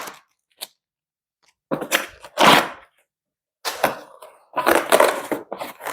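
Bagged hardware and packing being handled and set down: crinkling plastic with knocks and clinks of small metal parts, coming in short bursts with silent gaps between.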